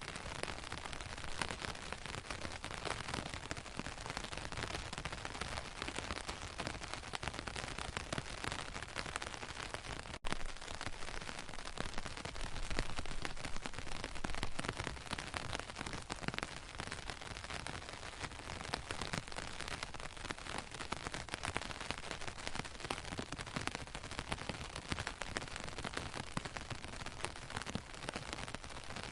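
Steady rain falling, a dense crackling patter of raindrops with a brief break about ten seconds in.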